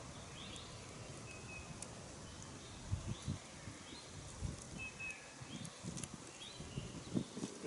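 A songbird repeating a short, high phrase about once a second, with irregular low thuds and rustles from about three seconds in.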